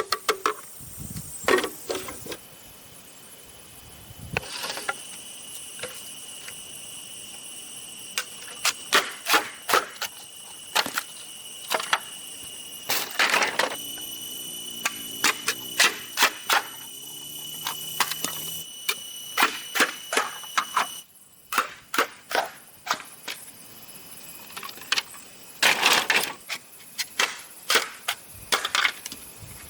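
Irregular knocks and taps of hand tools on bamboo, some in quick runs of strikes, with steady high-pitched tones in the background.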